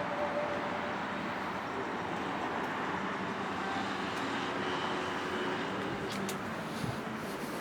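Steady outdoor background noise, a broad even hum like distant city traffic, with a couple of faint clicks about six seconds in.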